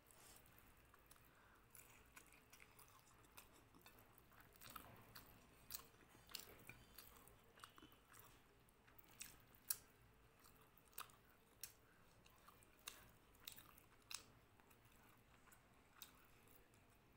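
Quiet, close-up chewing of a mouthful of rice and chicken curry, with sharp, irregular wet clicks and smacks that come more often after the first few seconds.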